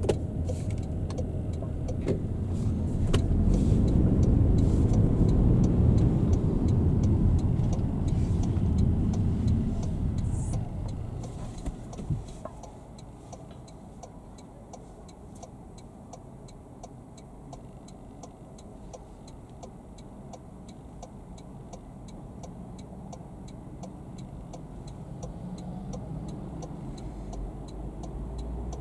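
Road and engine rumble inside a moving car's cabin, strongest for the first ten seconds or so and then dropping off as the car slows. Throughout, the turn-signal relay ticks evenly about three times a second.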